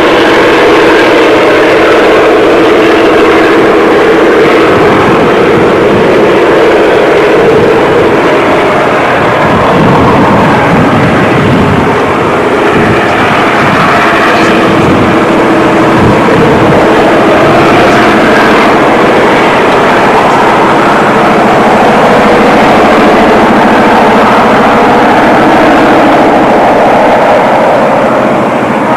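Freight train passing close: a loud, steady rumble and rattle of the locomotive and wagons with a held engine drone, and a few sharp clanks about halfway through.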